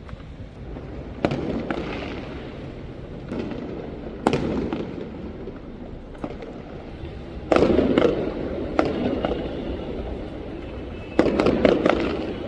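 Fireworks going off: about five sharp bangs spread across the stretch, each trailing off in a low rumble, with smaller cracks in between; the loudest come about two-thirds of the way in and near the end.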